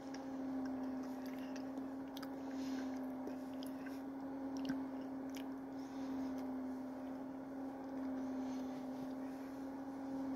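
A person chewing soft donut holes with faint, wet mouth clicks and squishes, over a steady low hum.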